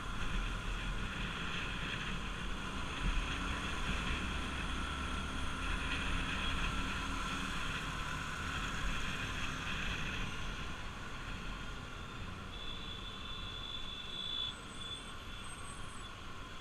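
Bajaj Pulsar RS200 motorcycle under way, its single-cylinder engine running steadily under road and wind noise, easing off after about ten seconds. A brief high steady tone sounds near the end.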